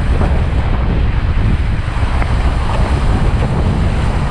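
Rushing whitewater of river rapids around a raft, loud and unbroken, with heavy wind buffeting on the microphone.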